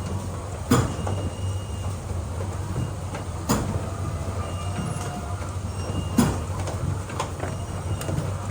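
Egg collection machinery running with a steady low mechanical hum, broken by a few sharp clacks.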